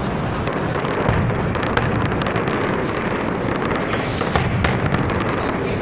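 Fireworks going off in a dense, continuous barrage: a steady rumble of booms with many sharp crackles and cracks scattered through it.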